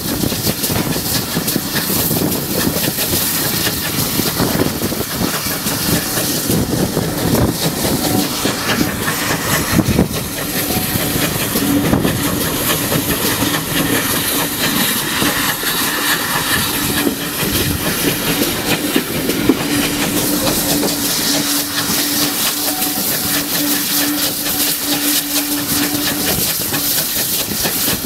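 Steam-hauled heritage train running at speed, heard from an open carriage window: the steady noise of the run with the wheels clattering over the rail joints.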